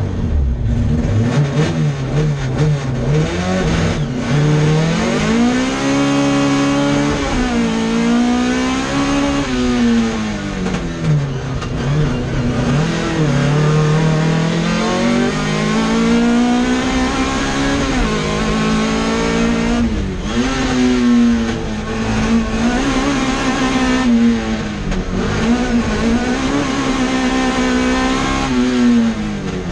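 Classic Mini's A-series four-cylinder engine driven hard, heard from inside the cabin. The engine note climbs and drops again and again through gear changes and corners.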